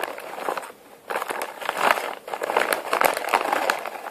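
Crisp fried potato snacks crunching and crinkling in irregular bursts as they are eaten.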